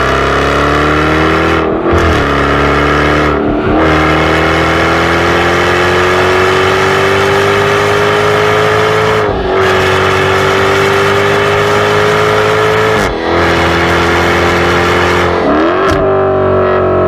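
Jaguar F-Type sports car engine accelerating hard through the gears. The engine note climbs in pitch in each gear and drops sharply at five quick upshifts, the first two close together and the later gears held for several seconds.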